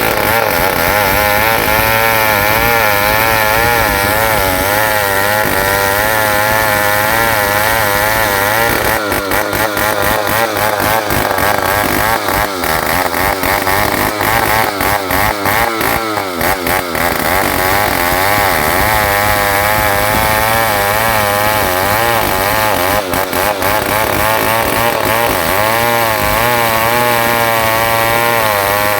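New West 707 two-stroke chainsaw ripping lengthwise through an ulin ironwood log, running at high revs with its pitch wavering as the chain bites and eases. In the middle, and briefly again later, a rapid rattling chatter joins the engine.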